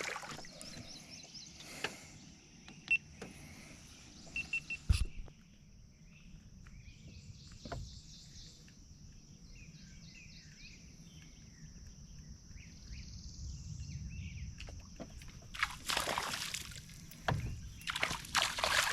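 Open-air river ambience from a small boat: a steady high-pitched insect drone with a few brief bird chirps. There are scattered sharp clicks in the first few seconds, and two short noisy rushes of water or boat noise near the end.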